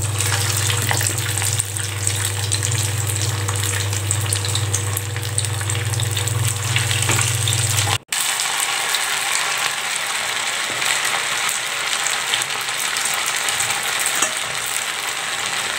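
Javvarisi (sago) vadai patties deep-frying in hot oil in a pan: steady sizzling with small crackling pops. A low hum runs underneath until a short break about eight seconds in, after which the sizzling goes on alone.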